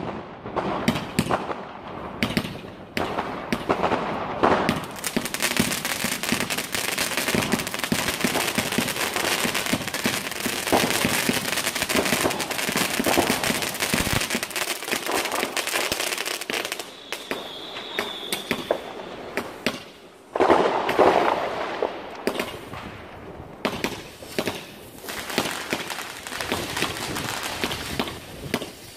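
Consumer fireworks going off: a dense run of crackling and sharp pops, with a brief high whistle past the middle and a short lull about twenty seconds in before the crackling picks up again.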